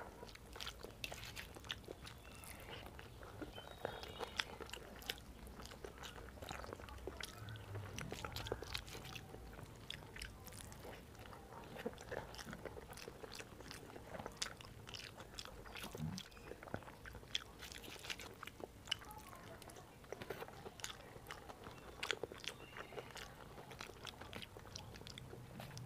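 Close-miked eating: chewing a mouthful of rice mixed with dal and chutneys, with many quick wet mouth clicks and smacks. Fingers squish and mix rice on a steel plate between bites.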